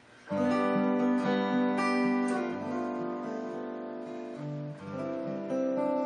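Solo acoustic guitar playing fingerstyle: a chord is plucked about a third of a second in and rings out, followed by further plucked notes and chords. The guitar is strung with old strings and may be a little out of tune.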